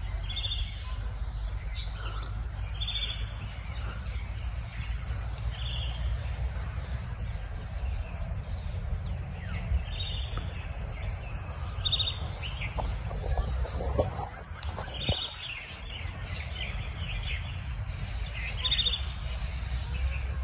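A bird repeating a short, high call every few seconds, over a steady low rumble of outdoor background noise.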